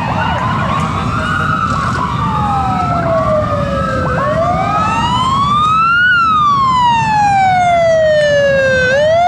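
Emergency-vehicle sirens wailing: at first several overlap, then one dominates, each sweeping slowly up and then down over a few seconds. A steady low rumble of motorcycle engines runs underneath.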